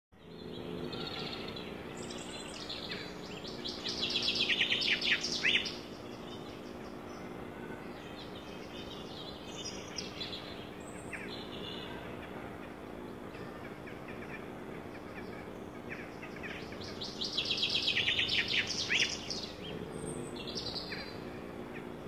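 Songbird singing outdoors: two loud song phrases, each a rapid run of repeated high notes, a couple of seconds in and again about seventeen seconds in, with fainter chirps between. A steady low hum runs underneath.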